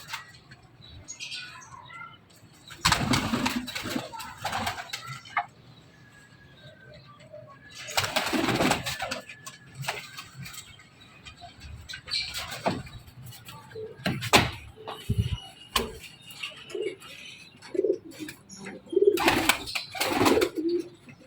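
Domestic pigeons in a loft cooing, with a few loud bursts of wing-flapping. The cooing grows more frequent near the end.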